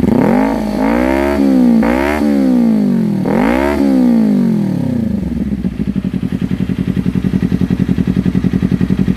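2018 Kawasaki Ninja 250 parallel-twin with a LeoVince LV10 slip-on exhaust, revved four times in quick throttle blips, then settling back to a steady, pulsing idle about five seconds in.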